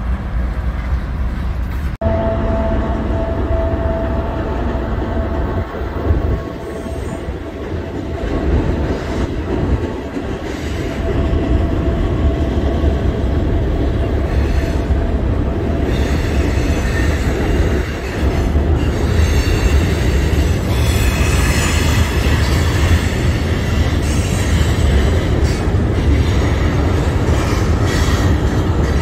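Freight train rolling past on a steel trestle: a steady low rumble of cars and wheels on the rails. High wheel squeal joins in the second half.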